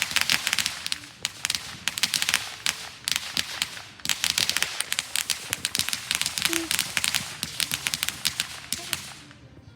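Fireworks crackling: a dense, rapid run of sharp pops in surging bursts with short lulls, dying out about nine seconds in.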